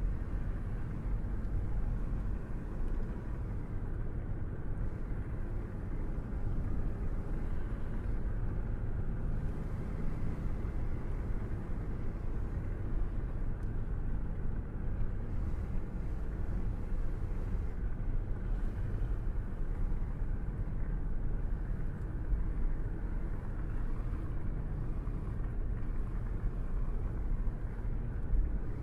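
Steady road and engine rumble of a car being driven at cruising speed, heard from inside the cabin.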